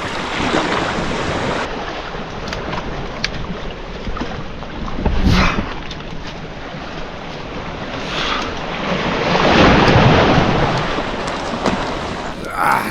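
Waves washing on a beach with wind on the microphone, a steady rush that swells about five seconds in and again around ten seconds.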